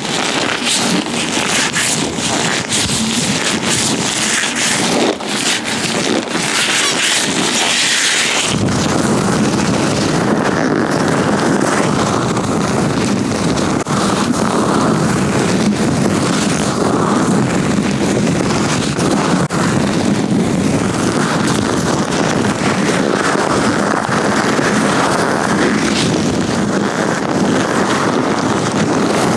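Latex-gloved hands working right on the microphone: crackling, sticky snaps and rustles for about the first eight seconds, then a dense, steady rubbing rumble as the mic is gripped and rubbed.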